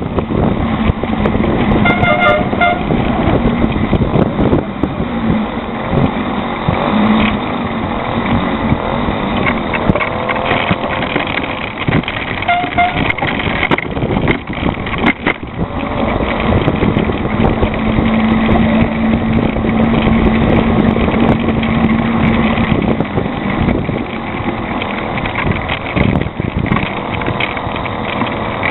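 Motorized bicycle's small engine running throughout a ride, loud and continuous, with a steady hum that holds for a few seconds past the middle.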